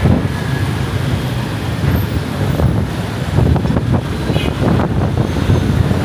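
Steady rumble of dense city motorbike traffic, heard while riding along with it: engines and road noise.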